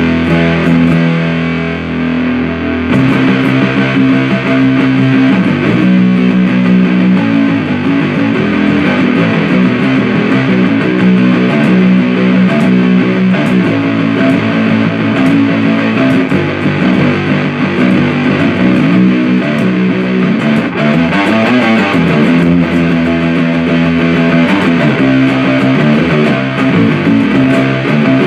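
Electric guitar played through a 77 Fuzz Blender fuzz pedal (a Big Muff-style circuit) into an Orange Super Crush 100 amp: a continuous distorted fuzz riff of sustained notes. The pedal's flavor switch is set down, which the player believes scoops the mids.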